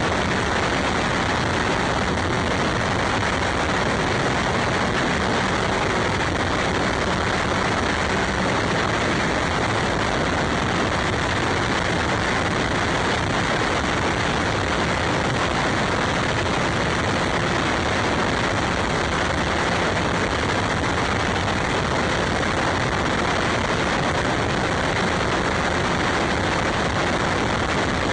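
A steady, unchanging rush of wind and road noise from riding a bike.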